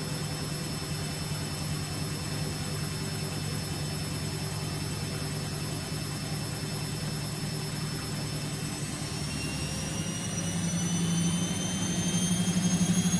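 Vestel CM8710 washing machine spinning: a steady motor and drum hum, then from about nine seconds in a rising whine and growing loudness as the drum speeds up on the final spin.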